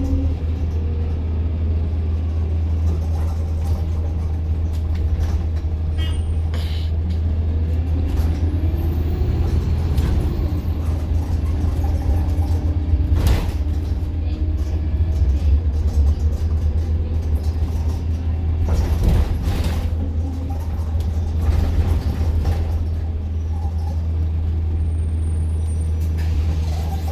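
Riding inside a moving bus: the diesel engine and road noise make a steady low drone, with a few sharp knocks and rattles from the bodywork.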